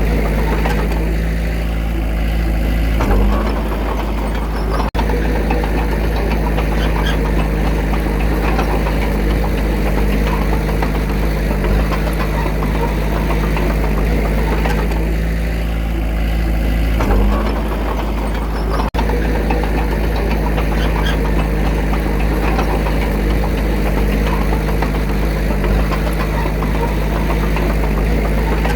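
Diesel engine of a Komatsu D21A small bulldozer running steadily. Its note shifts briefly about 3 seconds in and again near 17 seconds.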